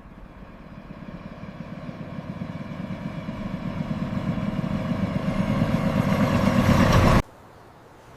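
A train approaching, its rumble growing steadily louder for about seven seconds, then cutting off suddenly.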